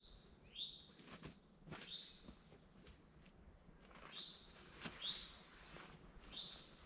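A songbird calling: short notes that each sweep quickly up to a high pitch, about six of them spread unevenly over a few seconds, faint against the quiet woods.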